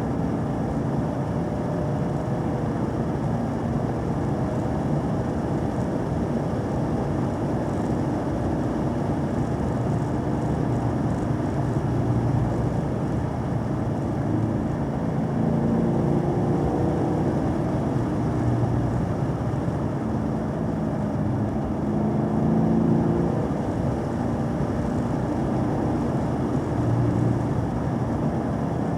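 A vehicle engine runs under varying throttle, its pitch rising and falling, over a steady rumble of road noise. It swells a little louder several times, most clearly about 22 seconds in.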